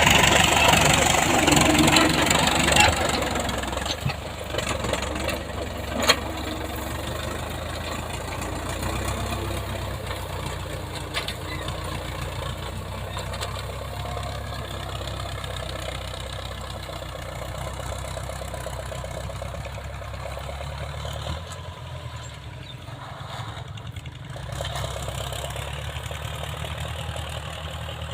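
Old Soviet-built tractor engine running steadily, louder for the first few seconds, then settling. It eases off briefly about three quarters of the way through.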